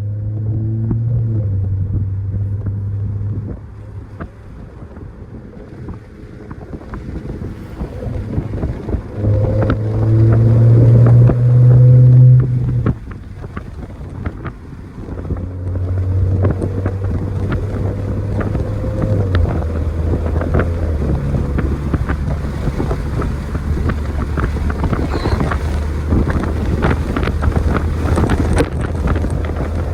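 Catless, straight-piped BMW B58 turbocharged straight-six in a 540i, driving: the engine note holds steady, then rises loudly under acceleration about ten seconds in and cuts off suddenly, then settles into a steady lower cruise. Wind buffets the microphone throughout.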